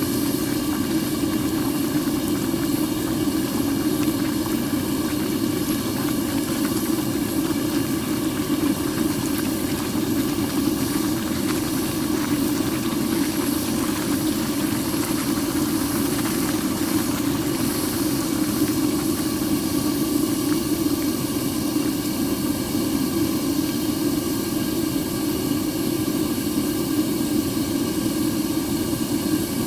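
Furnace burner running steadily: a low, even rush with hiss above it that does not change.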